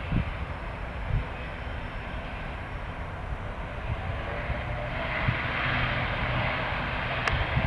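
Airliner engines running as an aircraft passes on the runway: a steady rushing roar that swells from about halfway through, with a low hum under it. Gusts of wind buffet the microphone, and there is one sharp click near the end.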